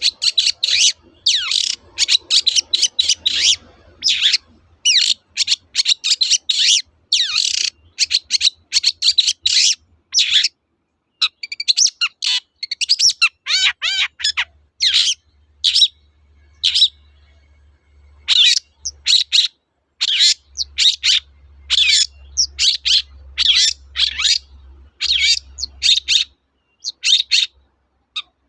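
Long-tailed shrike singing in full voice: fast runs of short, sharp chirping notes, with a brief pause about two-thirds of the way through.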